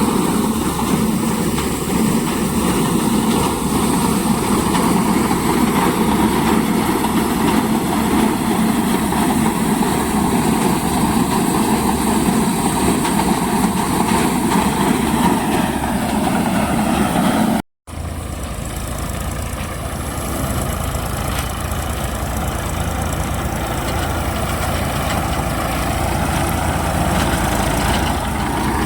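Tractor engine running steadily, driving a wheat thresher. The sound cuts out for a moment about eighteen seconds in and then resumes much the same.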